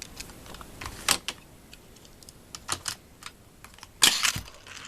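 Sharp plastic clicks and taps, then a louder short clatter about four seconds in, from a Hot Wheels die-cast truck being set in a plastic track launcher and run down the track.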